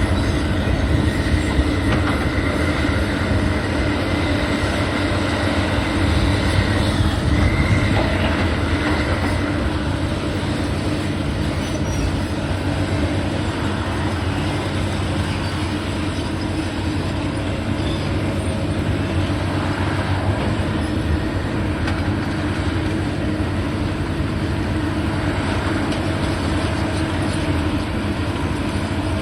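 Steady heavy mechanical rumble with a high metallic squeal in the first several seconds, running on without pause.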